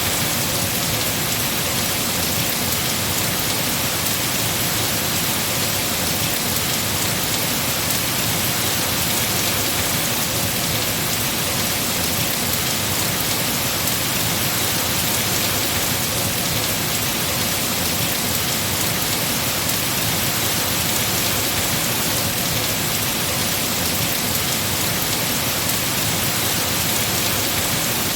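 Heavy rain falling steadily on trees and foliage, an even, unbroken hiss of raindrops.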